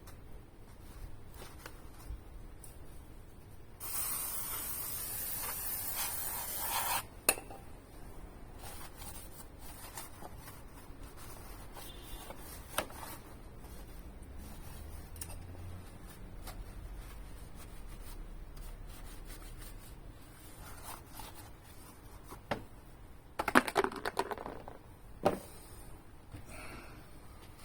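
An aerosol spray can hissing steadily for about three seconds, then a sharp click, followed by scattered rubbing and light scraping, with a brief burst of clattering scrapes near the end.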